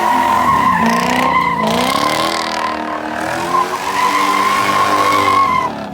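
A car's tyres squealing in a long steady screech, broken once midway, over its engine revving up and down: a car drifting or spinning donuts.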